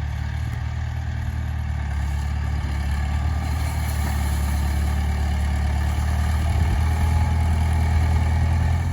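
International Harvester 574 tractor engine running steadily, growing a little louder as it goes.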